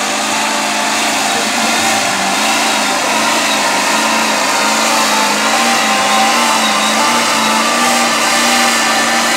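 A vehicle engine running loud and steady, with a low hum that wavers up and down underneath.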